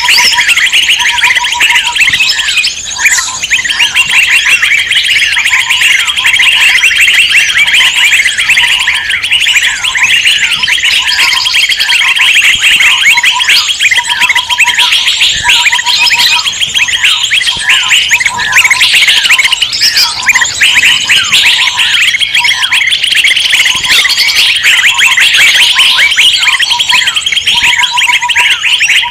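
Dense, continuous chorus of many small songbirds' agitated, scolding chatter: a 'burung ribut' commotion recording used as a lure to draw wild birds in. A short lower note repeats every second or two beneath the chattering.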